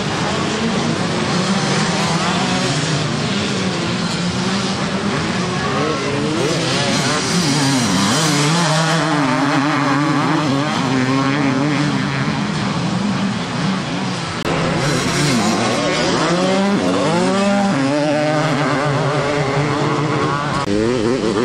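Several classic motocross bikes racing, engines revving up and falling back again and again as the riders work the throttle, with their pitches overlapping.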